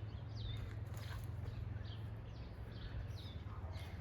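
A bird calling over and over in short, high chirps, about two or three a second, many of them falling in pitch, over a steady low rumble.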